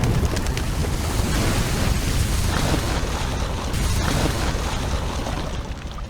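Loud, continuous splashing and churning of water: a Wels catfish lunging and thrashing in shallow water as it hunts pigeons.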